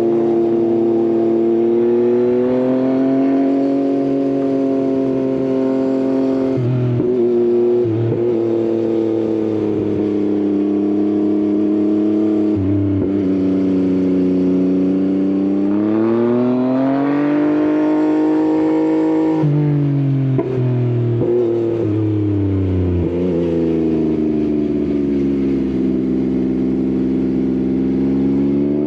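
Yamaha XSR900's inline-three engine with an Akrapovič exhaust, running under way. Its pitch climbs and falls as the rider accelerates, changes gear several times and eases off. The longest pull comes a little past the middle, followed by a shift.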